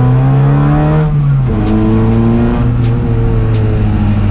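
Honda Brio's swapped-in 2021 Honda City 1.5-litre i-VTEC four-cylinder engine, naturally aspirated, pulling under acceleration, heard from inside the stripped cabin. Its pitch climbs, dips once about a second and a half in, then climbs slowly again.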